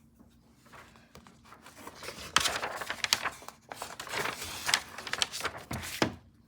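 Crinkling and rustling from something being handled, in dense bursts with sharp clicks, starting about a second in, growing louder past the middle and stopping just before the end.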